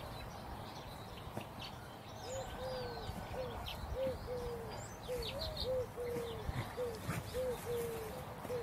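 Birds calling outdoors: a short, arching call repeated about twice a second, with scattered high chirps.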